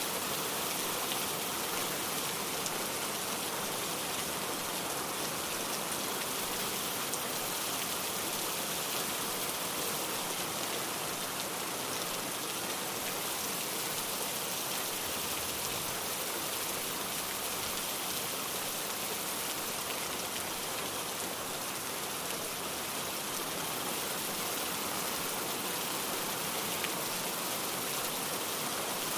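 Steady rain falling: an even hiss with fine pattering of drops, unchanging throughout.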